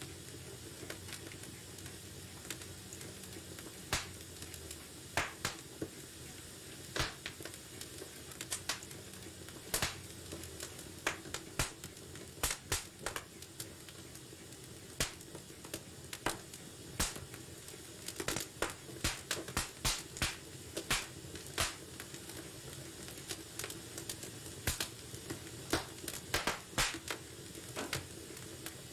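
Wood fire burning in a fireplace: irregular sharp crackles and pops over a steady soft hiss and low rumble.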